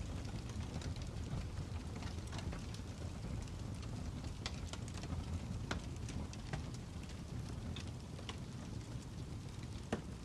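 Fire crackling: a steady low rumble with irregular sharp pops and snaps, one louder snap near the end.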